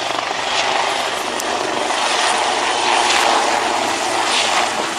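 An aircraft flying by, its engine running steadily and growing a little louder about three seconds in.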